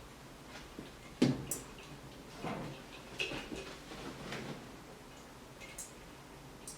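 Scattered knocks and rustles: one sharp knock about a second in, then several softer knocks and rustles.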